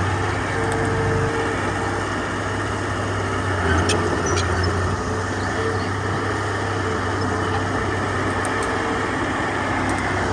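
Diesel engine of heavy earthmoving machinery running steadily at a constant speed, with a couple of light clicks about four seconds in.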